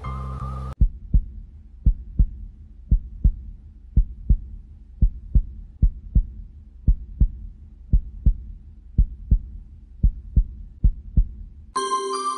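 Heartbeat sound effect: slow double thumps, lub-dub, about one beat a second. Near the end it cuts to chiming bell-like music.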